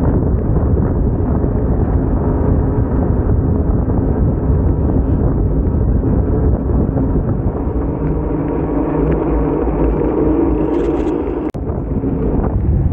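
Steady, loud low rumble of wind buffeting the microphone outdoors, broken by a sudden instant of silence about eleven and a half seconds in.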